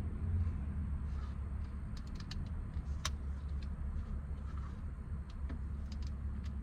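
Small plastic clicks and taps as the shifter trim's clip tabs are pried with a flathead screwdriver, one sharper click about three seconds in, over a steady low hum.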